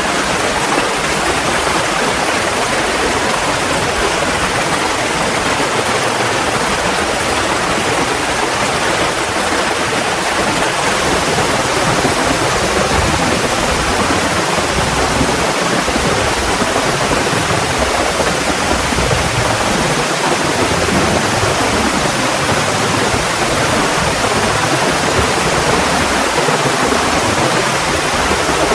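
Heavy rain falling in a loud, steady downpour.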